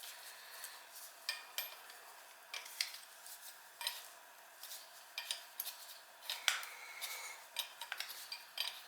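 Small metal parts and hand tools clinking and clicking irregularly as an oil burner's nozzle assembly is handled, a few sharp clicks a second with short pauses between them.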